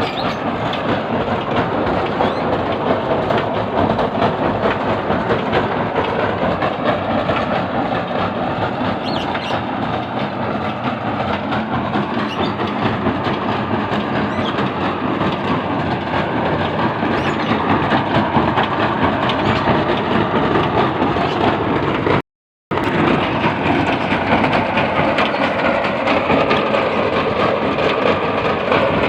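Soil grinding and sifting machine running with a continuous loud clatter. The sound cuts out for a moment about two-thirds of the way through.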